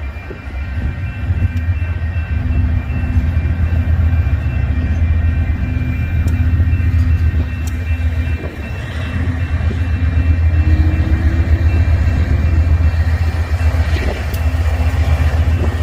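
Freight train running by: a steady, loud low rumble of the train on the rails, with faint steady high-pitched tones above it.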